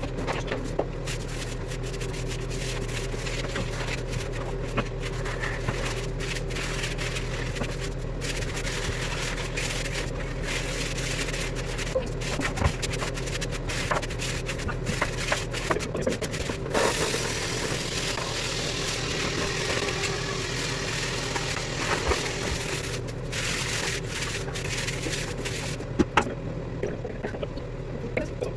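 A tool scraping and rubbing along the joints between bathroom tiles in uneven strokes with short pauses, over a steady low hum.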